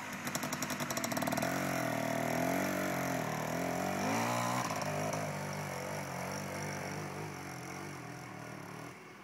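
Trials motorcycle engine pulling away in quick, even firing pulses, then revving up and down as it climbs. The sound fades as the bike moves off up the hill.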